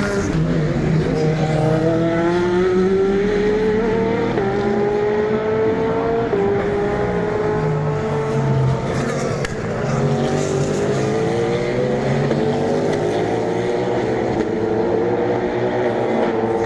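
Race cars accelerating hard under full throttle, their engine notes climbing in pitch and stepping at gear changes, with a second car's engine rising in after the first about ten seconds in.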